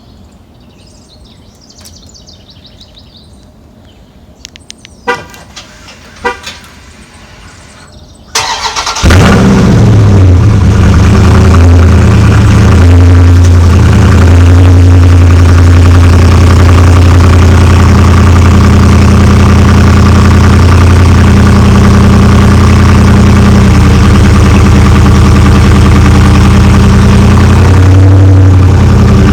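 A quiet stretch with two sharp clicks. About eight seconds in, the 2019 Dodge Charger Scat Pack's 392 HEMI V8 cranks briefly and fires on its stock exhaust, settling into a loud, steady cold-start idle.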